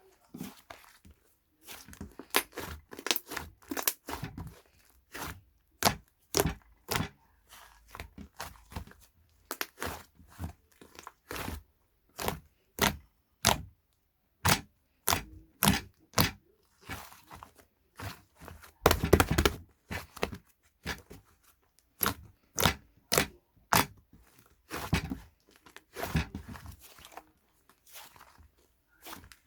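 Close-up crunching and crackling: many short, sharp crunches at irregular intervals, a second or less apart, with near silence between them and a denser run about two-thirds of the way through.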